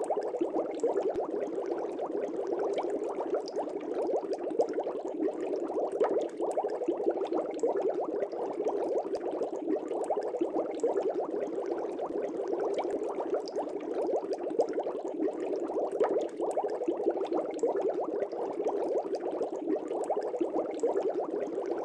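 Bubbles in an aquarium's water, a dense, steady bubbling with no let-up.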